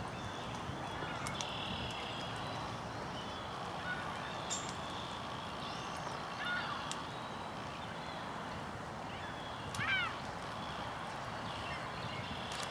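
Faint field ambience with scattered bird calls: a short descending call a little past six seconds and a quick run of three descending calls about ten seconds in, plus a few light clicks.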